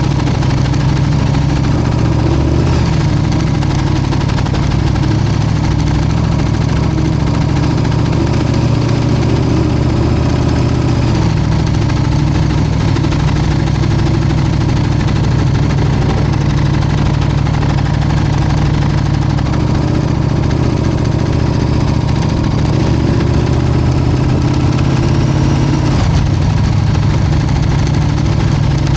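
Motorcycle engine idling steadily, with a low, even run and no revving.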